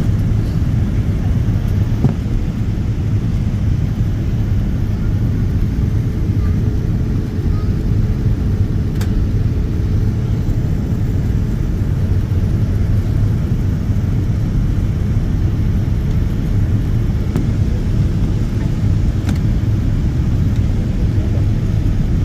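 Airliner cabin noise during the landing: a steady low rumble.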